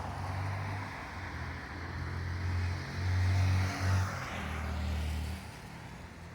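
A motor vehicle's engine running, a low hum that swells and eases several times and drops away about five seconds in, over a steady hiss.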